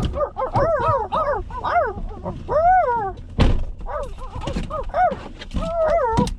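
A canine whining and yipping: a rapid series of short, high, rising-and-falling cries, with a single thump about halfway through.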